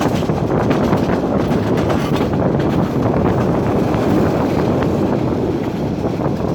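Passenger train running along the line, a steady rumble of wheels on track mixed with wind buffeting the microphone.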